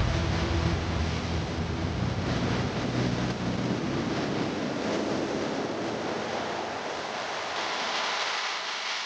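Loud wind noise buffeting the microphone, over a truck engine's low rumble that fades out about halfway through.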